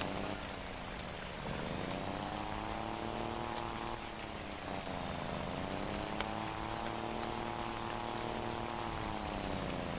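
Scania Super 540 truck's straight-six diesel running through a straight-through exhaust, pulling under load. Its note drops and then climbs back up about three times, once near the start, once around the middle and again near the end, as with gear changes while accelerating.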